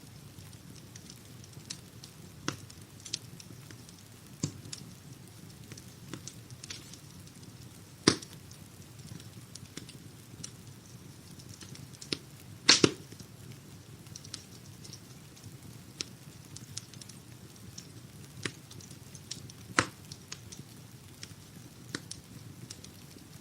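Wood-burning fire crackling: scattered sharp pops and snaps over a low, steady rumble of the flames. A few pops stand out much louder, including a quick double pop a little past halfway.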